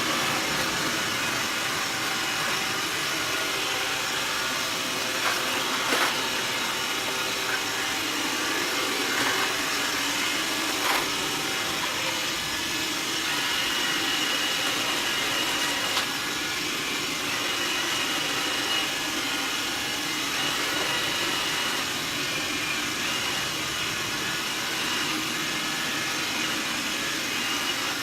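Robot vacuum cleaner running steadily across a hard floor scattered with rolled oats and powder, with a few faint clicks. A thin high whine comes in about halfway through.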